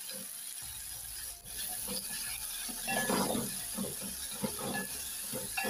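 Tomatoes and onions frying in oil in a metal pot, sizzling steadily while a spatula stirs and scrapes against the pot, with the stirring busiest about three seconds in.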